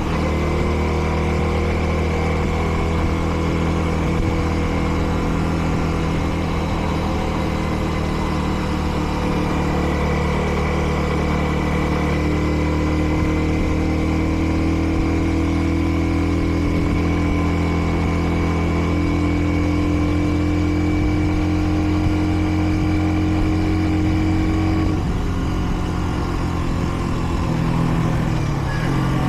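Kreidler Dice CR 125 motorcycle's 125 cc engine running at a steady cruise under way, with wind and road noise. The engine is held to moderate speed while it is being run in. About 25 seconds in the engine note changes, and near the end the pitch shifts again as the throttle or gear changes.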